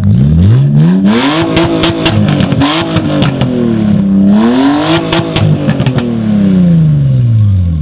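Car engine revved hard through a loud exhaust, held high with a string of sharp cracks and pops. It dips and rises a second time, then winds slowly back down to idle.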